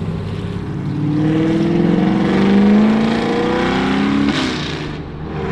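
A car engine accelerating hard, its pitch rising for about three seconds. The pitch drops off abruptly about four seconds in, and the sound fades briefly.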